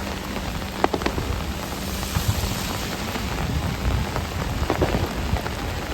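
Heavy rain falling steadily in a downpour, with a few sharp drop hits close to the microphone about a second in and again near the end.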